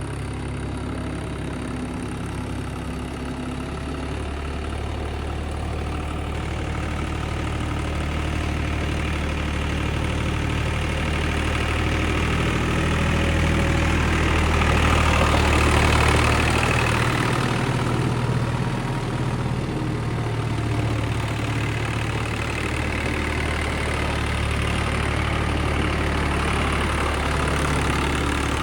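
1987 Case IH 485 tractor's diesel engine idling steadily, growing louder for a few seconds about halfway through.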